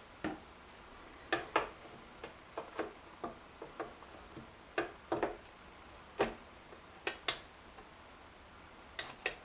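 Irregular light clicks and taps, about twenty in all, from the hinge parts of a washer door being handled and test-fitted together on a countertop.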